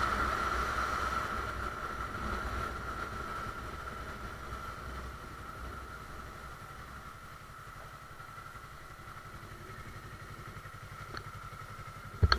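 Motorcycle running, heard from the bike's own camera, with low rumble and a steady high-pitched whine that fade gradually.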